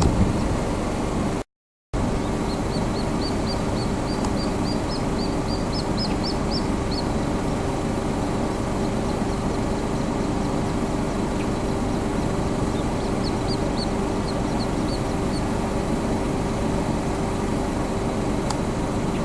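Little grebes calling: series of short, high peeps, about five a second, in two runs, over a steady low rumble with a constant hum. The sound cuts out briefly under two seconds in.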